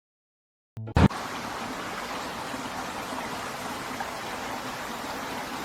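Steady rushing of running water, beginning with a short loud knock about a second in.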